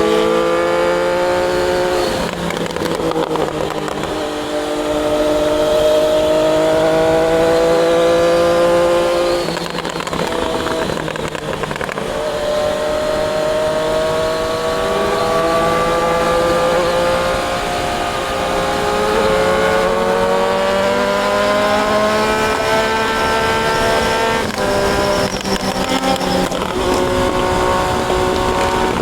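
Triumph Daytona 660 inline-three engine pulling under acceleration, its note climbing steadily and dropping sharply at upshifts about two, ten and twenty-four seconds in, then holding steadier near the end.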